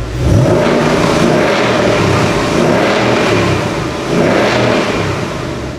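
Ford Mustang's 5.0-litre V8 revved through its active exhaust in Track mode, the loudest exhaust setting. It rises sharply from idle just after the start and surges again about four seconds in.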